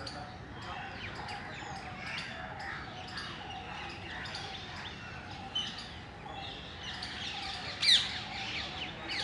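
Parrots chirping and calling steadily, with one loud, sharp, falling screech just before the eight-second mark.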